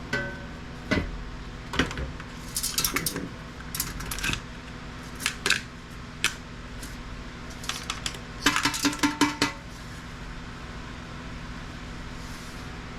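Small metal parts and tools clinking and rattling on a workbench while electronic equipment is taken apart, with two quick bursts of rapid metallic clinks partway through and near the end. A steady low hum runs underneath.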